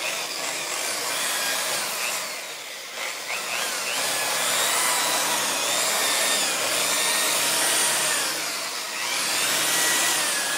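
Electric polishing buffer running on motorcycle paint with compound, a steady motor whine whose pitch wavers as it is worked over the paint, easing briefly about two seconds in.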